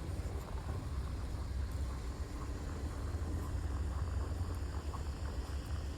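Steady low outdoor rumble of wind and city traffic, with faint short crunches of footsteps in snow.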